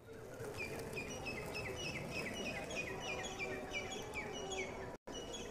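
Birds chirping: a rapid run of short, falling calls, about three a second, starting about a second in, over faint background noise.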